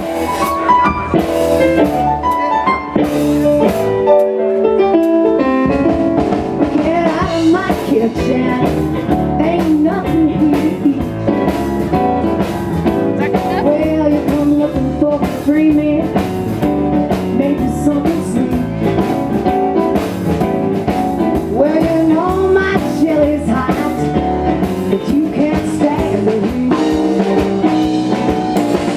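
Live blues band playing the instrumental opening of a song, with guitar and drums. It starts abruptly at full volume.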